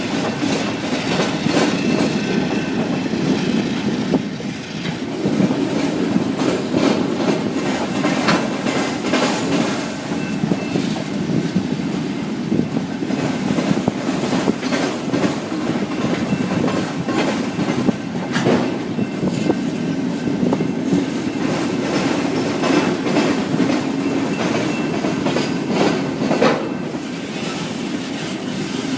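Autorack freight cars rolling past on a curve, steel wheels clacking over rail joints in a steady stream, with faint wheel squeal from the bend.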